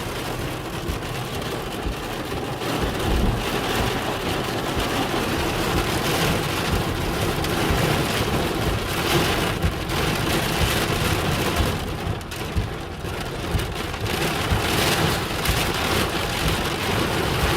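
Heavy rain pelting the outside of a van, with strong wind gusts buffeting and shaking it. A steady, loud hiss with surging low rumble and no single sharp crack.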